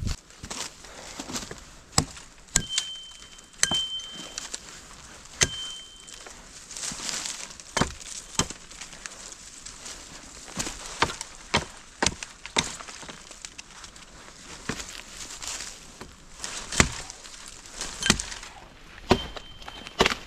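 Wood being chopped by hand: sharp, irregular strikes about one a second, some much louder than others. A short, thin, high steady tone sounds a few times between them.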